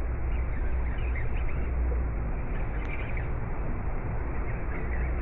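Faint bird chirps, a few short calls scattered through, over a steady low rumbling noise.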